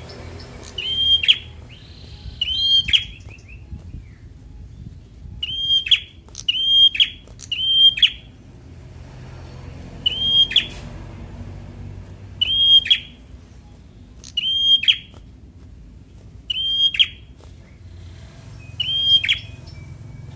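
A prenjak, a small prinia-type songbird, calling over and over: one short, sharp, high note at a time, every second or two, each flicking up and then dropping in pitch. A faint low hum runs underneath.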